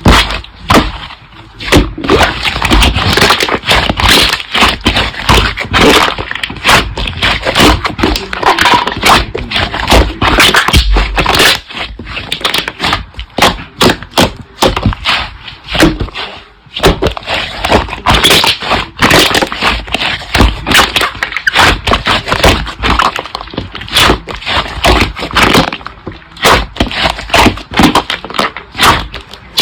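Slime being squeezed and pressed by hand, giving a dense run of crackling, clicking and popping sounds that come in clusters with brief pauses.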